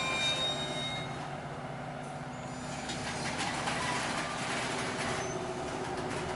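Cars of a loaded coal train rolling by. A wheel squeal dies away about a second in, leaving a steady rumble, and repeated clicks of wheels over rail joints come in over the last few seconds.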